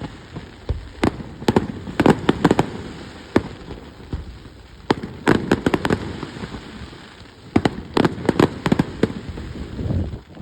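Aerial fireworks going off: sharp bangs in quick clusters of several a second, with a lower rumble near the end.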